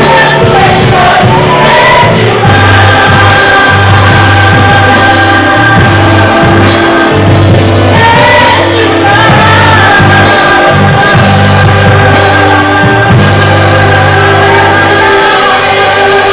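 Live gospel song: an orchestra plays long held chords over a sustained bass while voices sing.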